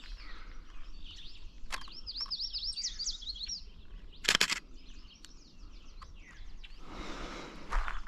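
A songbird singing a fast run of high, down-slurred notes for about a second and a half, with other birds faint in the background. A single short sharp sound comes about a second later, and footsteps start near the end.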